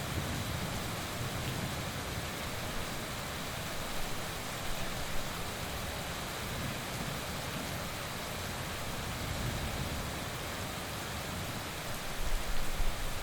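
Heavy rain falling steadily, an even hiss of drops. A low rumble of thunder swells near the end.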